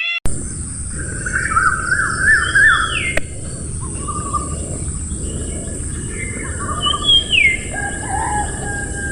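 Several birds singing and chirping, varied trills and falling whistled notes over a steady background noise and a steady high hiss. The sound cuts in a moment after the start.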